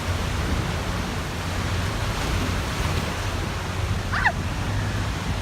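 Wind buffeting the microphone and sea water rushing past the hull of a motorboat under way, over a steady low engine drone. A brief falling high-pitched sound about four seconds in.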